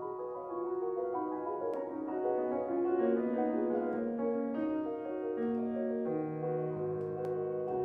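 Solo piano playing a classical piece, with many notes held and overlapping, growing a little louder over the first few seconds.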